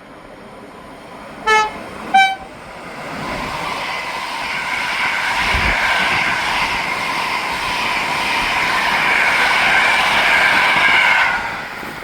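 A train sounds two short horn blasts about a second and a half in, a lower note then a higher one. The train then passes close by: its running noise builds to a loud, steady rush with a whine, then cuts off abruptly at the end.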